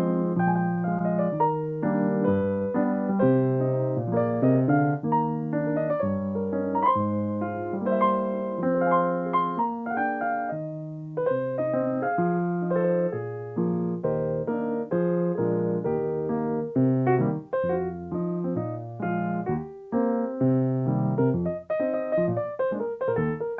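Solo piano playing a continuous run of notes and chords.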